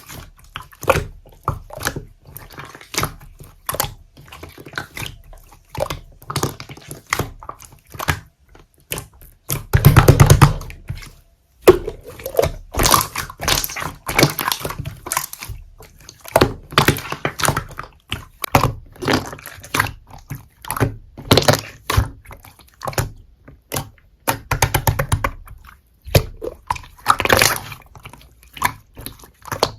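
Slime being squeezed and poked by hand: a steady string of sticky clicks and wet pops, with a louder squishing bout about ten seconds in.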